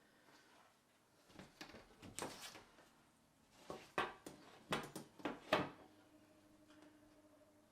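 A series of short scrapes and sharp taps from trimming and handling a piece of card with a craft knife, in two bunches, the loudest taps in the second bunch. A faint steady hum starts near the end.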